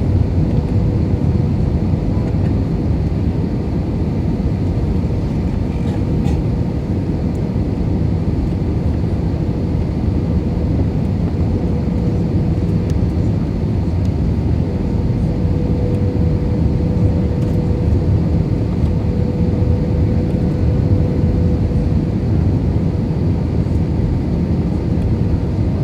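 Steady low rumble inside the cabin of an Airbus A320 with IAE V2500 engines, from engine and airflow noise, with a faint steady hum tone running through it.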